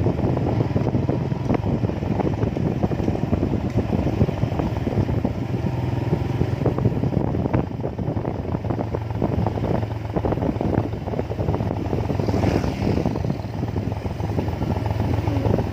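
A vehicle in motion: a steady engine drone with road and wind noise, broken by small knocks and rattles.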